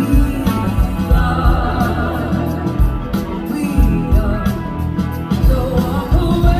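Live band playing a song: drums keeping a steady beat under bass, with a gliding, bending melodic lead line on top.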